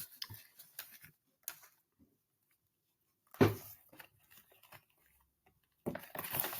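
Mostly quiet room with scattered faint clicks and rustles. A louder short rustle comes about three and a half seconds in, and a run of clicks and rustles near the end.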